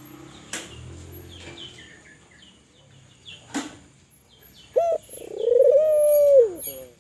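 Spotted dove (tekukur) cooing: one short coo about five seconds in, then a long drawn-out coo that drops off at the end. Small birds chirp faintly before it, with a couple of sharp clicks.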